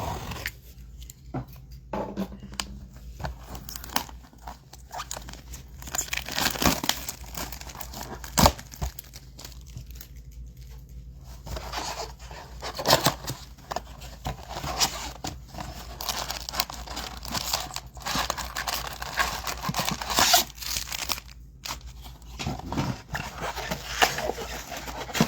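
A Topps Chrome blaster box and its foil card packs being torn open by hand: irregular tearing and crinkling of cardboard and wrapper foil, with a few sharp clicks and snaps.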